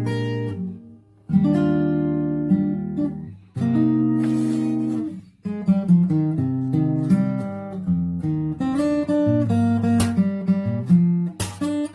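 Solo acoustic guitar playing: three chords in turn, each left to ring and fade, then from about five and a half seconds a steadier pattern of picked notes over a bass line.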